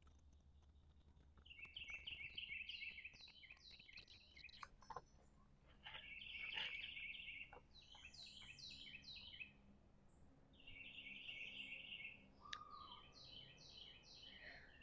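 Faint birdsong: a songbird singing rapid phrases of repeated high notes in three bouts of about three seconds each, over a low steady background hum.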